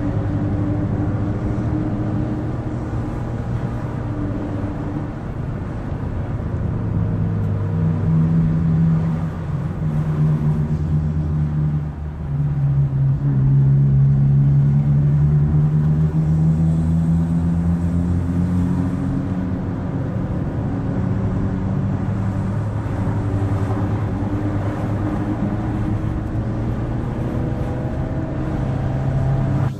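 Car engine pulling up a winding grade, its note slowly rising and falling with the revs through the bends, heard from inside the car. It grows louder about twelve seconds in.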